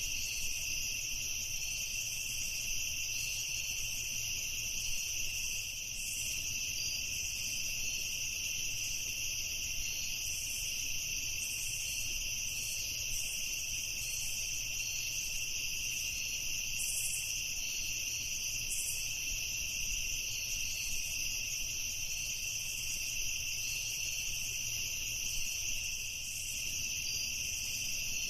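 Crickets chirping in a steady chorus, a continuous high-pitched trill that does not let up, over a faint low rumble.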